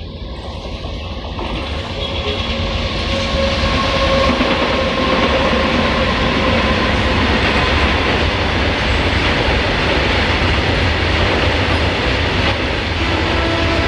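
Freight train hauled by twin WAG-9 electric locomotives running in on a curve: a steady rumble and clatter of wheels on rail that grows louder over the first few seconds and then holds. A faint whine of wheels on the curve sounds in the middle, and a train horn starts sounding just before the end.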